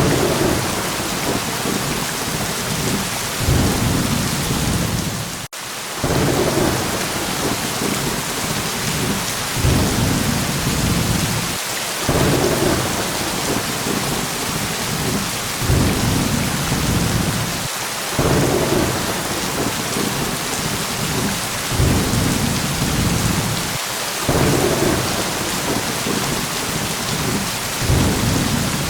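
Steady rain hissing, with low thunder rumbles swelling and fading about every six seconds. There is a brief dropout in the sound about five seconds in.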